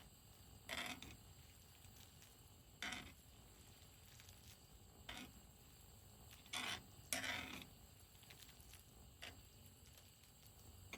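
Cookware and utensils being handled: about six short, quiet scrapes and clinks spread a second or two apart, the longest about seven seconds in.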